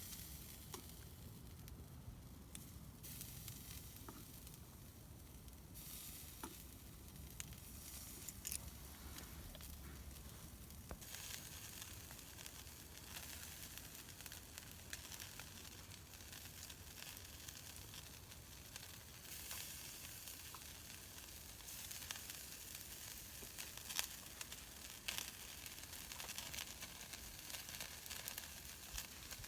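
Food frying: a faint, steady sizzle that swells and fades, with a few small pops.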